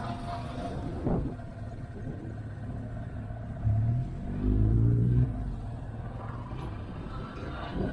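Motorcycle running at road speed, with a steady low rumble of engine and wind. A louder low rumble swells briefly about four seconds in and again for about a second just after.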